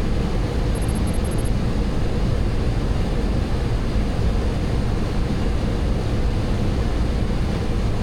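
Steady cockpit noise of a Boeing 737-800 on final approach: airflow over the flight deck and engine noise, heaviest in the low end and even in level throughout.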